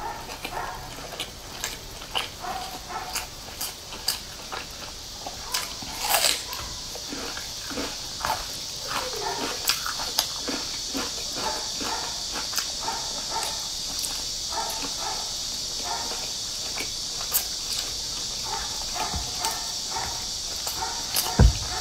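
Close-miked chewing and wet mouth sounds of someone eating stuffed flatbreads, with many small smacking clicks. A steady high hiss comes in about eight seconds in, and there is a single low thump near the end.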